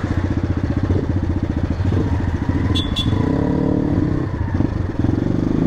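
Motorcycle engine running steadily under way, its rapid firing pulses heard from the bike, with a brief higher-pitched sound about three seconds in.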